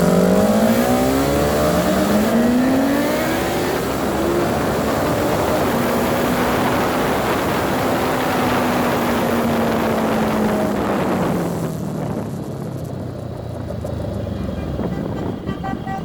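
Motorcycle engine pulling up through the gears, its pitch rising in steps over the first few seconds. It then holds a steady note under rushing wind noise and drops away about eleven seconds in as the throttle eases off.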